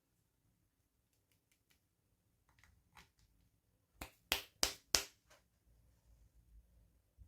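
Toy pieces and packaging being handled during an unboxing: a few faint clicks, then four sharp, loud clicks in quick succession, about three a second, starting about four seconds in.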